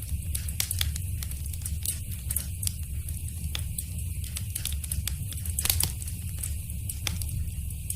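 Wood fire burning in a fireplace: frequent sharp crackles and pops over a steady low rumble, with the loudest pop about six seconds in.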